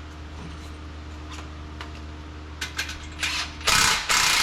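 Ratchet wrench clicking as a bolt on an exhaust pipe connection is run down: a few light clicks at first, then a fast, loud run of ratcheting in the last second or so.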